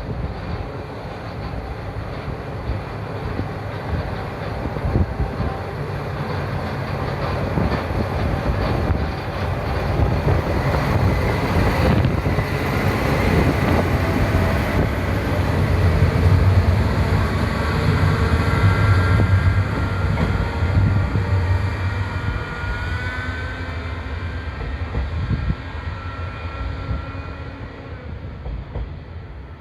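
Watarase Keikoku Railway WKT-500 series diesel railcar pulling out, engine running under power with wheels rumbling on the rails. It grows loudest about halfway through as it passes, then fades away, with thin high squealing tones in the second half.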